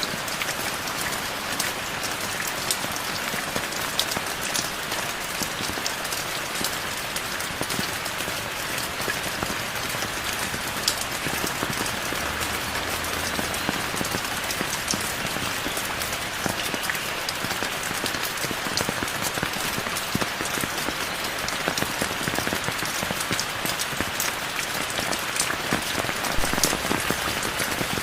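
Heavy rain falling steadily, a dense even hiss of rain with many individual drops ticking on surfaces.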